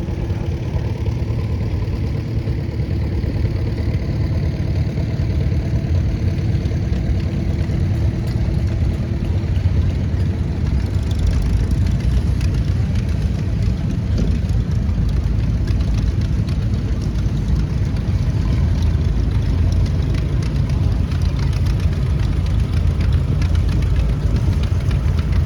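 Farmall 230 tractor engine running steadily as the tractor drives past. It gets fuller and louder about eleven seconds in.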